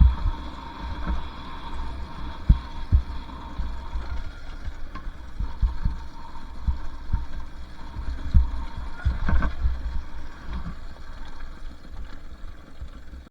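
Two-stroke dirt bike being ridden along a dirt trail: a continuous low rumble with frequent sharp thumps and jolts from the bumps.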